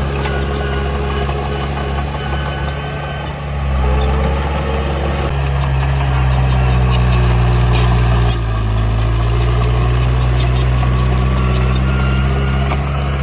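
Bulldozer's diesel engine running steadily, with its note shifting about four seconds in and again about eight seconds in. Light metallic clicking runs through the middle.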